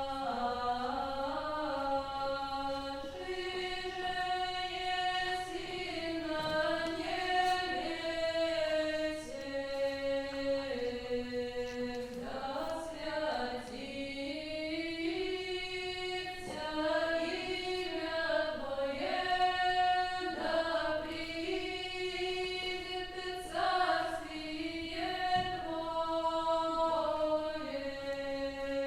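A vocal ensemble singing old Russian chant, several voices holding long notes and moving together in parallel lines.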